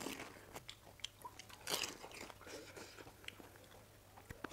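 Close-up chewing and biting of crisp panipuri shells: a run of small crackly crunches, with the loudest crunch about one and a half seconds in.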